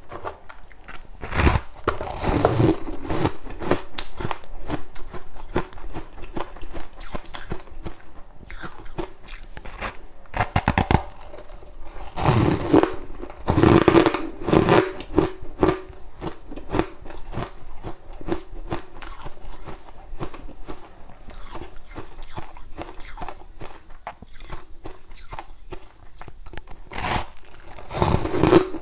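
Freezer frost being bitten and chewed close to the microphone: crisp crunching clicks throughout, with several louder, heavier bites scattered through.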